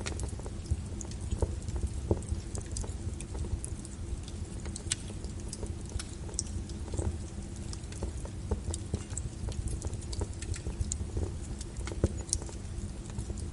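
Wood fire burning in a fireplace, crackling with irregular small pops over a steady low rumble, with a sharper pop about twelve seconds in.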